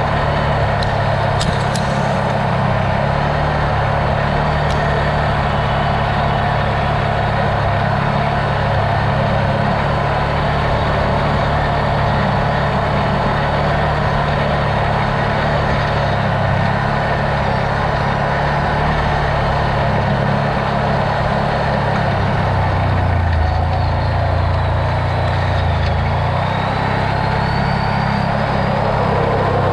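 Off-road vehicle's engine running steadily while driving, with the engine note dropping lower for a few seconds about three-quarters of the way through.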